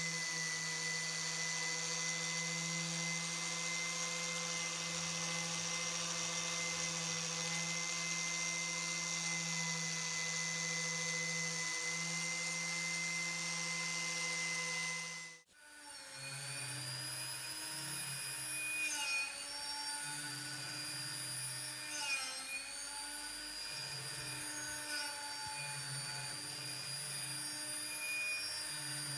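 An electric power tool running steadily with a constant whine. It cuts off abruptly about halfway through, and a similar motor drone then runs on, its pitch sagging briefly twice as if it were under load.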